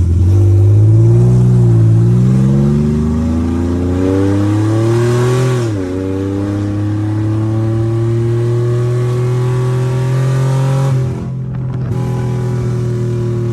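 VR30 twin-turbo V6, swapped into an Infiniti G37 and running with no exhaust, pulling under acceleration: the engine note climbs for about six seconds, drops sharply as the automatic transmission shifts up, then pulls on steadily, with a short dip near the end.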